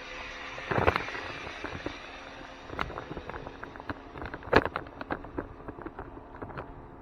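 Irregular sharp clicks and knocks, loudest about a second in and again past the middle, over a faint steady hum.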